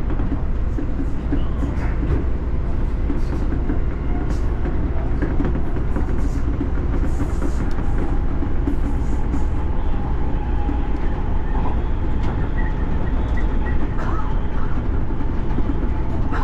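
Electric commuter train running along the line, a steady rumble and rail noise with faint ticks from the wheels over the track. A thin steady whine joins about two-thirds of the way in.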